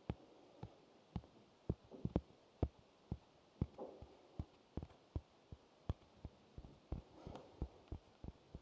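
Light, slow tapping close to the microphone: single sharp taps about two a second at an uneven pace, with a soft brief rustle twice.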